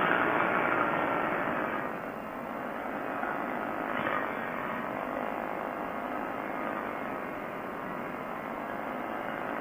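Quicksilver ultralight's engine and propeller running in flight, with wind rushing past. The sound drops a little about two seconds in, then holds steady.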